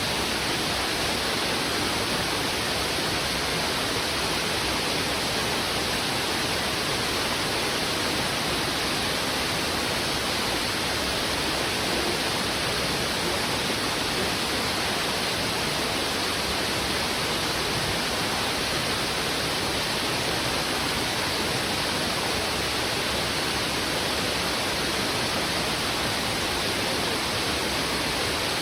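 Heavy river water rushing steadily over rocks, a dense, even rush with no change in level.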